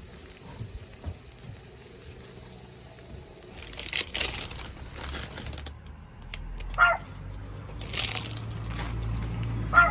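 Rustling, crinkling handling noises, and a chihuahua giving two short yips, about seven seconds in and again at the very end.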